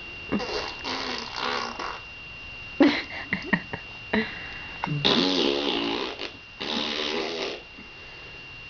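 A baby blowing raspberries, buzzing his lips to make fart noises: a run of short splutters and longer buzzes, the longest lasting over a second about five seconds in.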